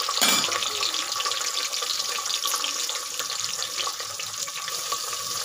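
Green peas and whole spices sizzling in hot oil in an aluminium pot, a steady hiss, with one brief knock at the start.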